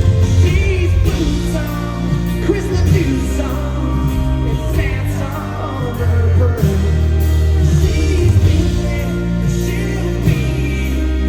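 Live country band playing, with singing over a steady bass line.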